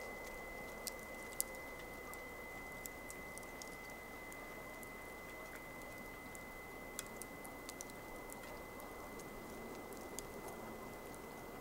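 Wood campfire burning: a steady hiss with irregular sharp crackles and pops, the loudest about a second and a half in. A faint steady high tone sounds throughout.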